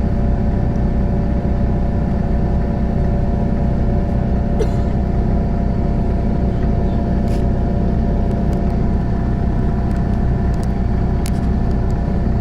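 Steady engine and road noise inside a moving vehicle: a continuous low rumble with a faint steady hum above it.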